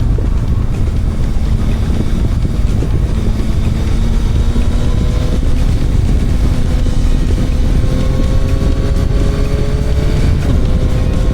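Motorcycle engine running while riding, with a heavy rumble of wind on the microphone. The engine pitch climbs slowly through the second half as the bike gathers speed.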